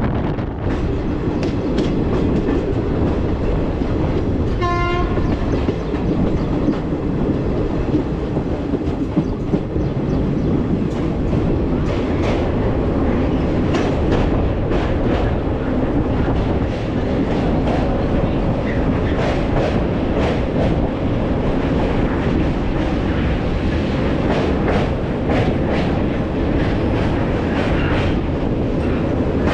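Hussain Sagar Express passenger train running, heard from aboard: a steady rumble with wheels clicking over rail joints, and a short horn toot about five seconds in.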